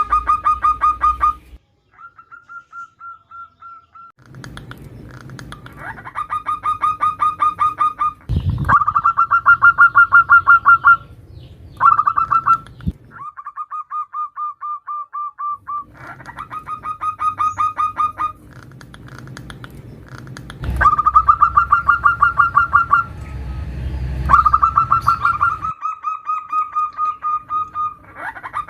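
Zebra dove (perkutut) calling: runs of rapid, evenly pulsed cooing notes held at one pitch, each run lasting a second to a few seconds, with short gaps between them. It is a female perkutut calling to males, as the uploader presents it.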